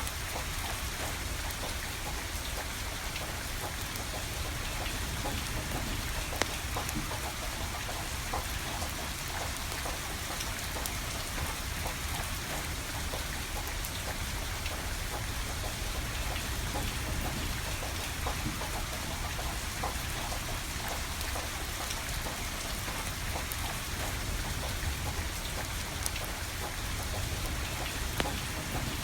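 Steady rain falling, with scattered sharp crackles and pops from a wood fire burning.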